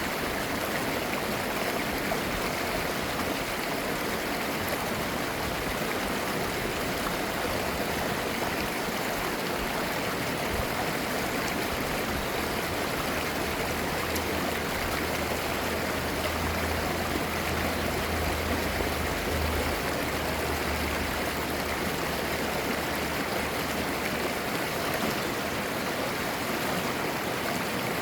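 Valley stream flowing, a steady babbling rush of clear water. A faint low rumble joins in under it for a stretch in the middle.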